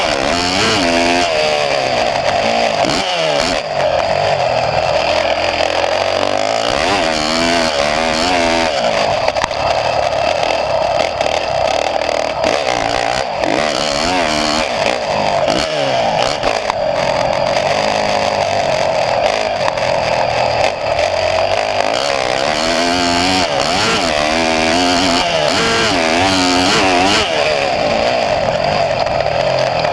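A small engine running loudly and continuously, its revs rising and falling.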